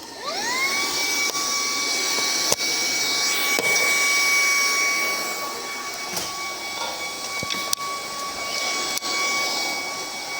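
Vacuum cleaner switched on, its motor whine rising over the first second and then running at a steady high pitch over a suction hiss. A few sharp knocks come from the nozzle bumping along the way.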